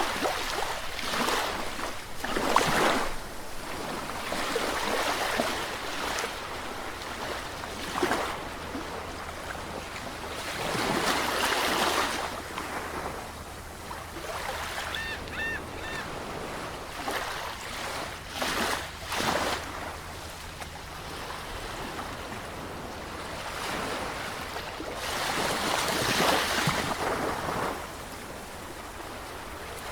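Sea waves breaking and washing in and out, the surf swelling and ebbing every few seconds. The loudest breaks come early on and again a little before the end.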